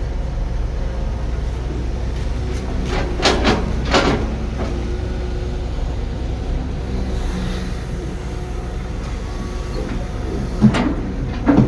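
Diesel engine of heavy earthmoving machinery running steadily, with sharp metallic clanks twice about three to four seconds in and twice again near the end.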